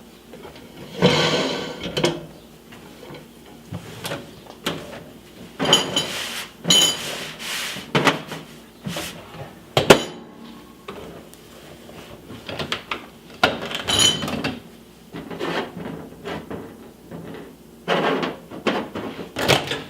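Cleaning inside a microwave oven: irregular wiping and rubbing strokes mixed with knocks and clatter, with one sharp click about ten seconds in.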